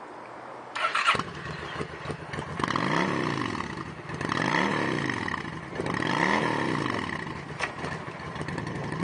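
2008 Honda Shadow Spirit's 750cc liquid-cooled V-twin engine starting about a second in, then revved three times, each rev rising and falling back, before settling to idle.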